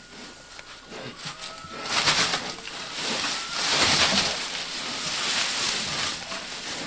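Pregnant sow building a farrowing nest, rustling and crunching leaves and litter. The rustling grows louder about two seconds in and stays rough and crackly.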